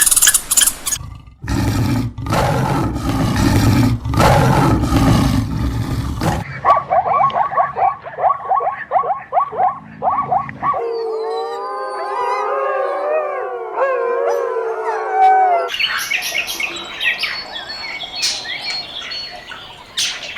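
A run of different animal calls one after another: rough, noisy roars for the first few seconds, then a fast rhythmic chattering call, then a drawn-out wavering call with several tones, and high chirps near the end.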